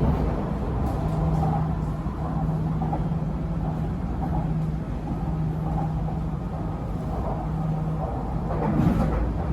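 MRT Purple Line electric train running between stations, heard from inside the carriage: a steady low rumble with a hum that comes and goes.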